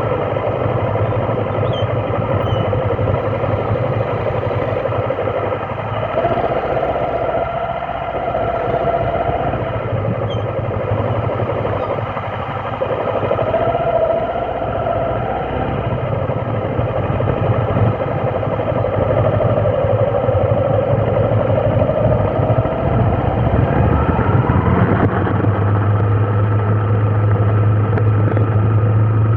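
A motor vehicle engine running steadily, its pitch wavering. About five seconds before the end the pitch rises and then holds higher, as the engine picks up speed.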